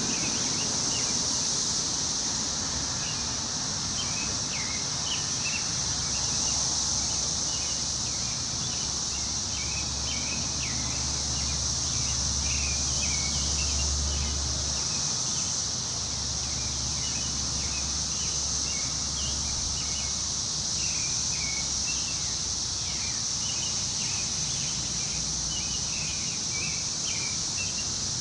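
Forest ambience: a steady high-pitched insect drone with many short bird chirps scattered throughout. A low wind rumble swells for several seconds in the middle.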